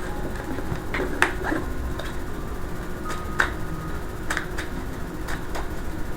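Tarot cards being handled and laid out: several short, sharp snaps and taps at irregular intervals.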